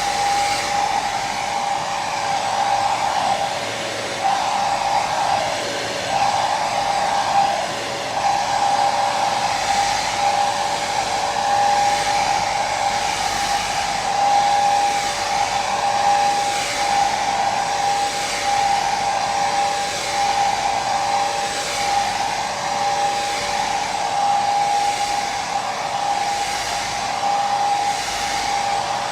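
Hair dryer running continuously: a steady rushing blow with a constant motor whine.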